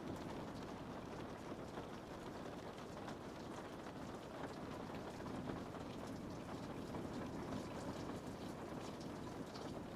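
Rain pattering steadily on a window pane, many small drop ticks over a low, even wash of rainfall.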